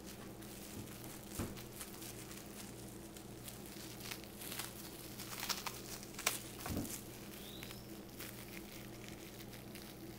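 Plastic wrap crinkling in short, scattered crackles as the ends of a chicken roll wrapped in it are twisted and tied, over a low steady hum.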